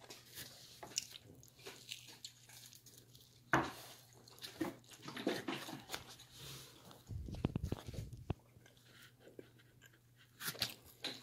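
People chewing pizza close to the microphone, with scattered small clicks and a sharper knock about three and a half seconds in.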